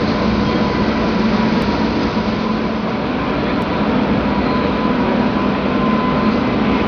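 Large mining machinery running steadily: a dense, even rumble with a constant hum and a thin steady whine above it.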